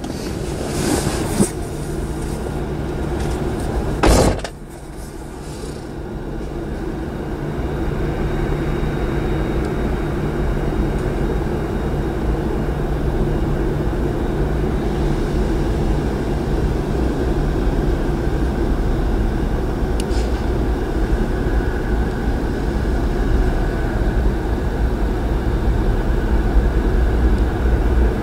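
Diesel locomotive engine rumbling, growing steadily louder as the train approaches. A brief loud knock comes about four seconds in.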